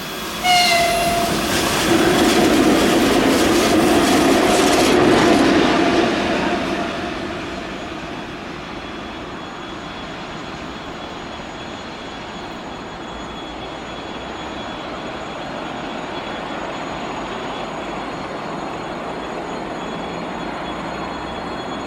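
3ES5K electric locomotive running light past the trackside: a brief horn note about half a second in, then several seconds of loud wheel clatter over the rail joints as it passes, fading after about seven seconds to a steady, quieter rumble.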